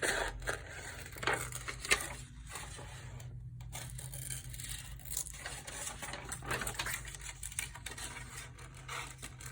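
Scissors cutting through paper in irregular short snips, with the paper rustling as it is handled, and one sharper click about two seconds in.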